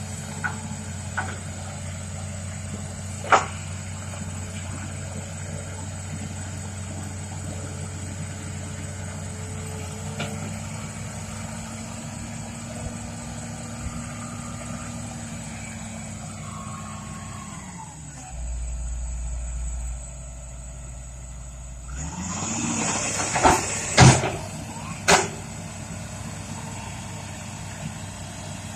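Hitachi Zaxis 200-5G excavator's Isuzu 6BG1 six-cylinder diesel running, its pitch rising about ten seconds in as it takes load, dropping low for a few seconds, then picking up again. A few sharp metallic knocks come as it picks up, the loudest sounds here, with a single click early on.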